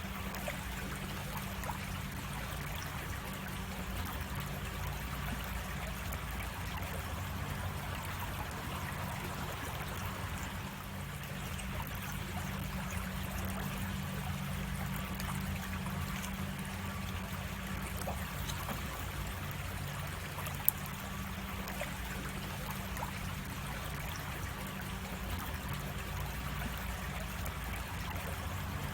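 Creek water running and trickling steadily, with one brief sharp click about two-thirds of the way through.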